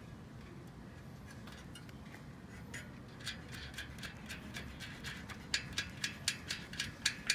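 Short, crisp scratching strokes at an irregular pace of a few a second, starting about three seconds in and growing louder toward the end.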